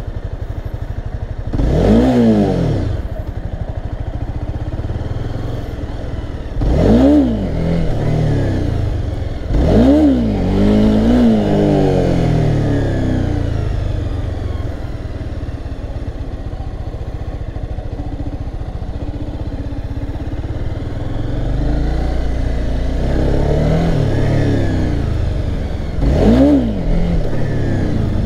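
Honda CBR300R's single-cylinder engine running, revved sharply about five times, each rev shooting up and dropping back within a second or two: the rev-and-clutch launches used to pop the front wheel up for a wheelie.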